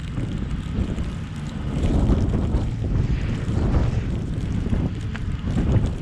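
Car driving in a snowstorm: a low rumble of road and wind noise that swells and dips, with wind buffeting the microphone.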